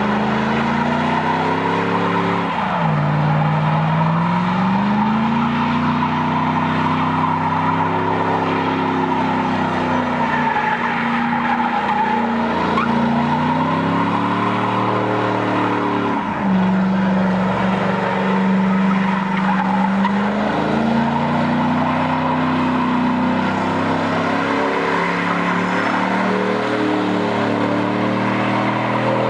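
A vehicle engine under hard load, its pitch climbing slowly and then dropping sharply twice, as at gear changes, over a steady high screeching noise.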